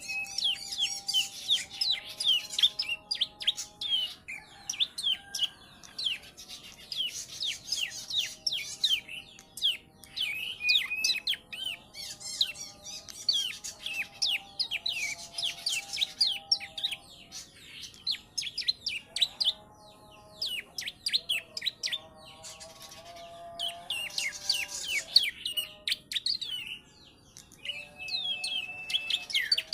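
A young caged prenjak (prinia) singing in repeated bursts of rapid, high chirps a few seconds long, working in ciblek song it has learned. Lower held notes that step in pitch run underneath.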